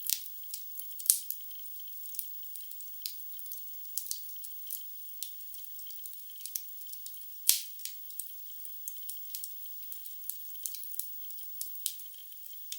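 Burning wood logs in a fireplace crackling: an irregular patter of small, thin snaps, with two louder pops, one about a second in and one past the middle.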